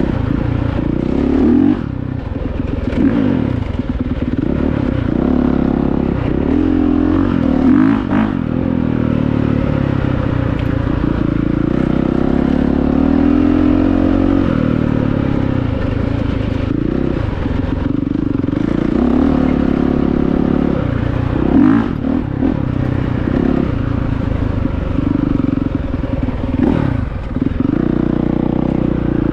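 Honda CRF450R dirt bike's single-cylinder four-stroke engine running under constantly changing throttle, its pitch repeatedly rising and falling as it revs up and backs off, with a few brief knocks from the bike along the way.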